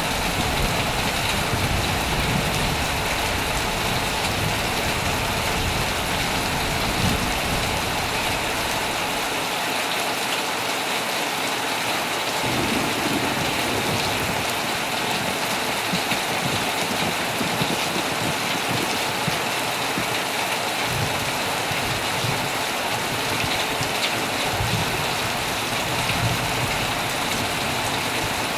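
Heavy rain falling steadily on a tent, a dense even hiss of drops. A low rumble comes and goes beneath it, dropping away for a few seconds near the middle.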